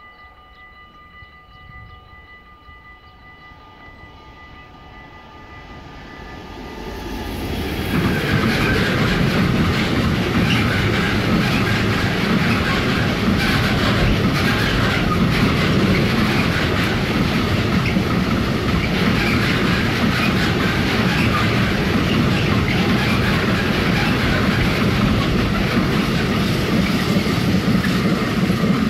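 Container freight train passing close by on an electrified line: a faint steady high ringing as it approaches, building over the first seven seconds, then a loud, steady rumble of wagon wheels on the rails for about twenty seconds as the long string of container wagons goes by.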